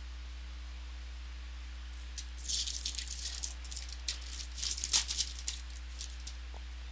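Crinkling and tearing of a foil trading-card pack wrapper as a pack is opened, in a cluster of crackly bursts starting about two seconds in and peaking near five seconds.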